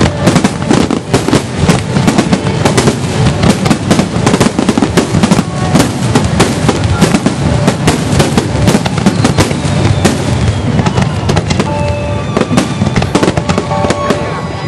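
Aerial fireworks bursting in a dense, rapid barrage: many overlapping bangs and crackles with hardly a gap between them.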